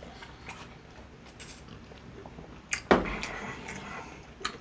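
A person chewing fried chicken: scattered wet mouth clicks and smacks, with one louder bite or smack about three seconds in and a sharp click near the end.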